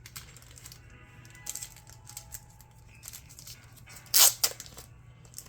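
Trading cards being handled and flicked through, with small rustles and clicks and one sharp, louder rustle about four seconds in, over quiet background music.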